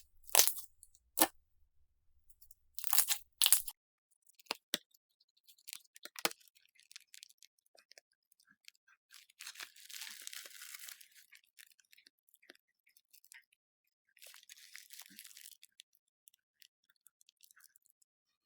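Slime being pressed and pulled by hand, crackling: a few sharp snaps in the first few seconds, then scattered small clicks and two spells of soft, fine crackle.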